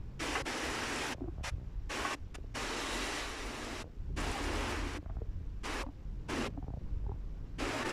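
Rain falling as a steady hiss over a low rumble; the hiss cuts out and back in abruptly several times.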